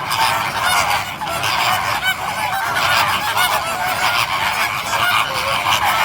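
A flock of birds calling continuously, many short calls overlapping one another without a break.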